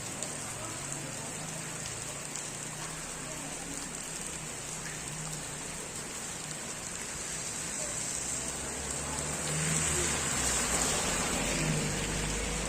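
Heavy rain falling in a steady hiss, swelling louder a little past the middle with a low rumble underneath that lasts until near the end.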